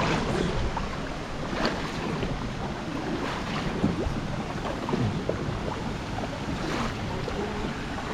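Steady rush of water with wind buffeting the microphone, broken by scattered small splashes and knocks.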